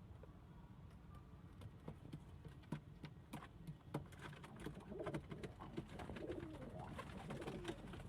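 Domestic pigeons cooing, starting about halfway in and carrying on to the end, with scattered sharp clicks and taps throughout.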